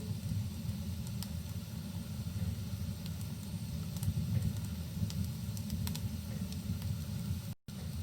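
Wood fire crackling in a fireplace, with sparse sharp pops over a steady low rumble and a soft hiss of rain. Near the end the sound cuts out for an instant.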